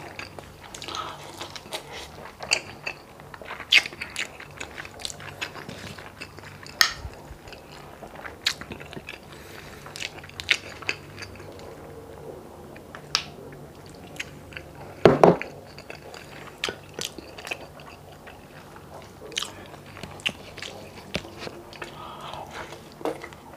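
Close-up eating sounds of a person chewing and biting rice and gelatinous beef skin from balbacua stew, with irregular sharp mouth clicks and one louder burst near the middle.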